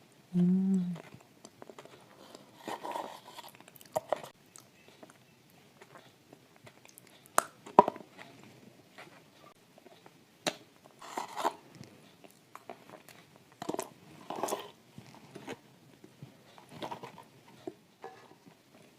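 Close-miked chewing and crunching of dry shortbread cookies coated in thick clay paste, with sharp crisp crunches every second or few. A short hummed voice sound comes about half a second in.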